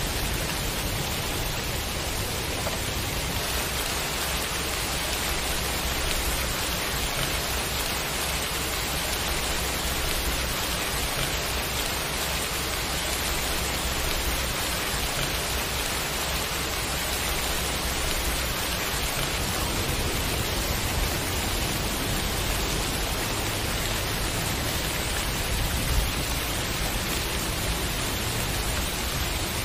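Steady heavy rain, an even, unbroken hiss of falling rain and drops hitting surfaces, with no thunder.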